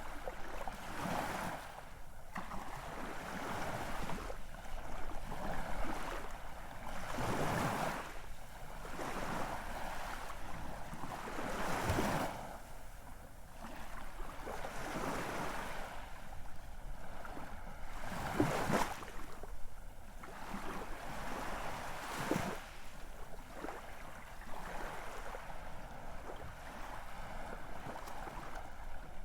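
Ocean waves washing in and breaking, a steady rushing wash that swells and ebbs every few seconds, with two stronger breaks about twelve and eighteen seconds in.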